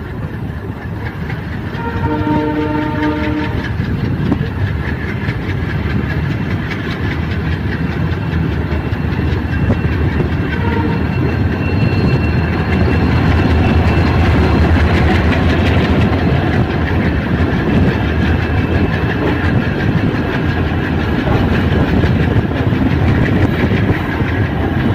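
Running noise of a passenger train heard from an open coach door: wheels rumbling and clattering on the rails, growing louder as it runs alongside another train. A train horn sounds once about two seconds in, for about a second and a half.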